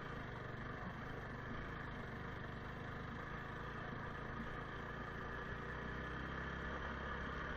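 Motorcycle engine running steadily as the bike rides over a rocky dirt track; the low engine note shifts about six seconds in.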